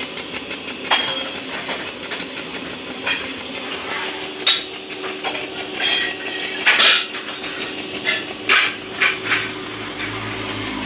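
Irregular sharp metallic clinks and taps of stainless steel exhaust pipe parts being handled and worked, about a dozen, thickest in the middle of the stretch, over a steady workshop hum.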